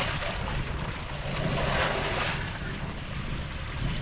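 Wind buffeting the microphone over the steady rush of the sea around a small fishing boat, with a low rumble underneath and a louder gust-like rush about two seconds in.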